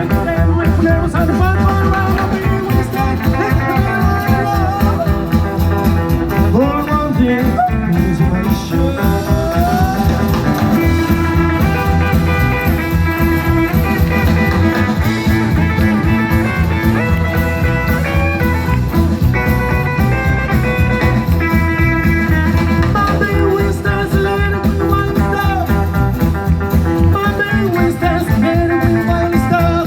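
Live rockabilly band playing a song with a steady beat.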